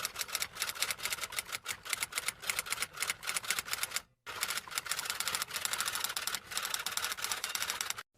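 Fast typing: a rapid, uneven run of key clicks that pauses briefly about four seconds in, then carries on.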